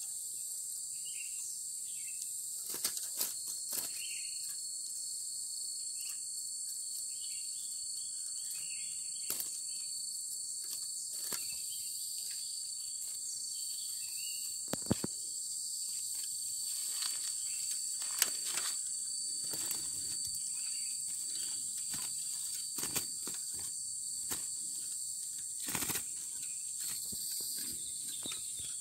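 Insects trilling in a steady high chorus, with a thin steady high tone joining about three seconds in and fading out near the end. Scattered sharp clicks and knocks break through now and then.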